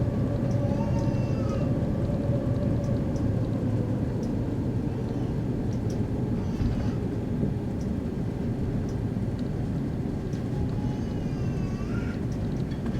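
Steady low cabin rumble inside an Airbus A330-300 with Rolls-Royce Trent 700 engines, heard from a window seat ahead of the wing, with a few faint squeaky glides and light ticks over it.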